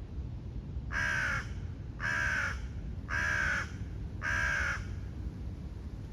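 A crow cawing four times, about once a second, each caw about half a second long.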